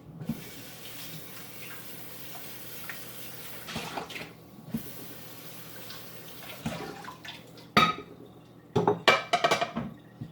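Water running steadily, stopping for a moment about four seconds in and starting again, then a few sharp clatters of dishes near the end.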